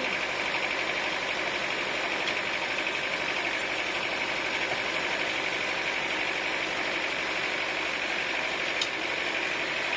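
Sawmill machinery running steadily with an even, unchanging engine-like drone, and a single faint click near the end.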